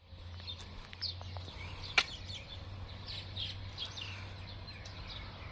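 Small birds chirping over and over in short, falling chirps, over a steady low hum, with one sharp click about two seconds in.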